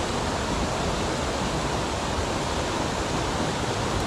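Steady rushing of a fast-flowing mountain stream, an even wash of water noise with no other events.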